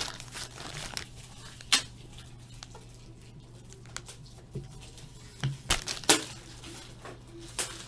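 Trading cards and their packaging being handled: a few light clicks and rustles, over a steady low hum.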